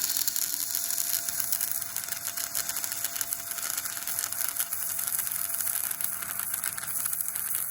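Electric arc welding on thin square tube: a steady, dense, high crackle of the arc.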